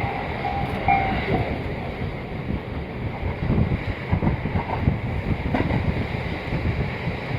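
Inside a KiHa 40 diesel railcar on the move: steady rumble of the wheels on the rails and the underfloor engine, with irregular knocks and a brief faint squeal about a second in.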